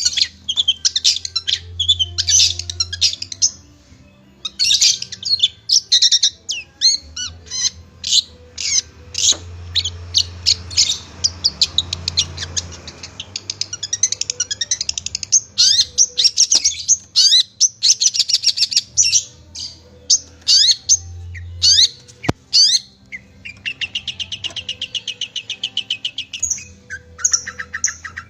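Long-tailed shrike (cendet) singing a fast, varied string of sharp chirps and whistles, with a buzzy rattling trill near the end. A faint low hum comes and goes underneath.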